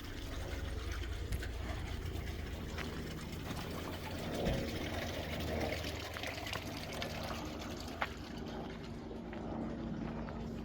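Water pouring and trickling steadily, over a constant low machine hum that picks up a steadier tone about three seconds in.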